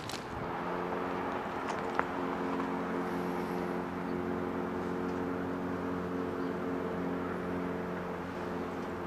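Steady engine hum of a motor vehicle running, holding an even pitch throughout, with a couple of faint clicks.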